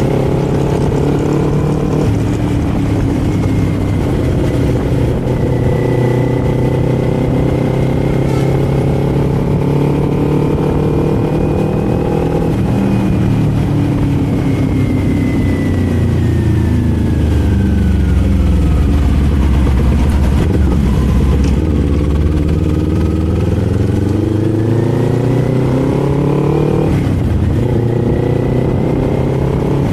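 Kawasaki Z400's parallel-twin engine heard from the rider's seat while under way. Its note holds steady at first, falls through the middle as the bike slows, then climbs again as it accelerates, with a brief break near the end that fits a gear change.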